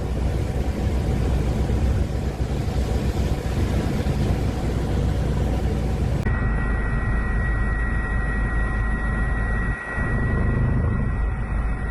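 Wind buffeting the microphone with a loud rushing noise. After an abrupt cut about six seconds in, it gives way to a steady low rumble with a thin steady high whine over it.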